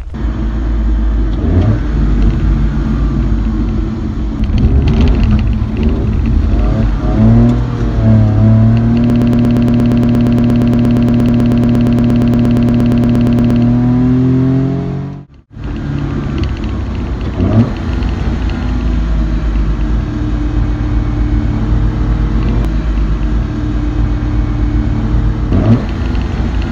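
Small brushed electric motor and gearbox of a 1:10 WPL D12 RC pickup truck whining, rising and falling in pitch with the throttle, over a low rumble from the tyres and drivetrain on rough ground. For several seconds in the middle it holds a steady high whine at full throttle. The sound cuts out briefly about halfway through.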